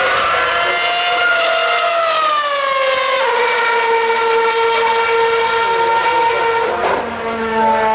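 A 2013 Formula One car's 2.4-litre V8 running at very high revs. Its high whine falls in pitch over a couple of seconds, drops abruptly about three seconds in, then holds a steady high note until it briefly dips near the end.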